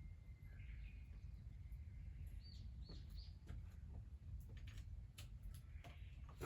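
Faint bird chirps: three short high calls in quick succession about halfway through, with scattered faint ticks and a low steady background rumble.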